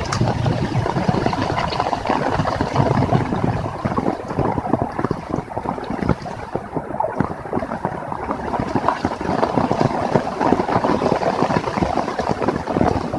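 Heavy rain falling steadily, a dense patter of countless drops striking close by, with some wind.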